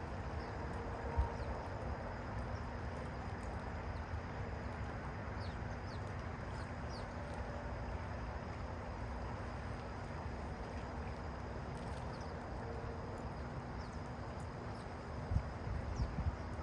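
Faint, scattered short chirps of small backyard birds over a steady outdoor background hiss, with a few low knocks near the end.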